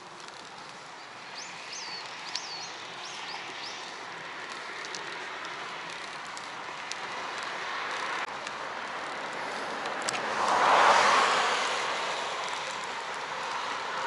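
Steady rushing road and wind noise with a few short bird chirps early on, then a vehicle passes, swelling to its loudest about eleven seconds in and fading away.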